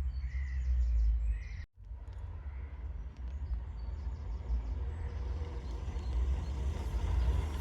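Outdoor ambience with a steady low rumble and a bird chirping several times in the first second or so, broken by a brief dropout; a car then approaches, growing louder toward the end.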